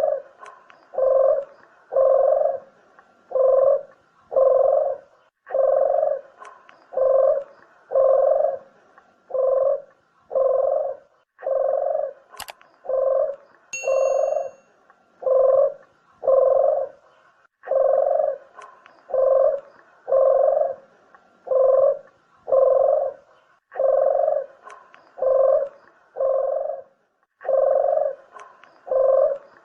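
Puter dove cooing over and over: low, even coos at a bit over one a second, in runs of several with short pauses between runs. It is the call played to lure doves in for shooting or trapping. A sharp click falls about halfway through.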